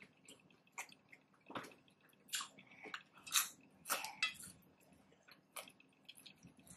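A person chewing chicken nachos: a string of irregular wet mouth clicks and crunches, loudest in the middle.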